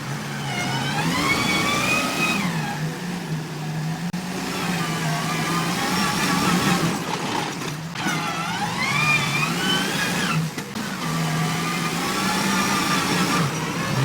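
Tractor engine running under strain, revving up and easing off in long swells; its pitch climbs steeply twice, about a second in and again past the middle.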